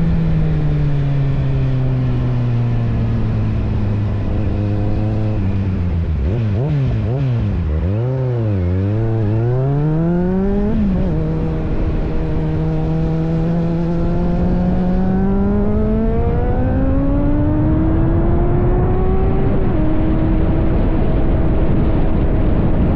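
Kawasaki Z750 inline-four motorcycle engine under way. The revs fall off, then a series of quick throttle blips rise and fall about a third of the way in. After a drop in pitch at a gear change, the engine pulls steadily up through the revs, shifts again near the end and runs on evenly.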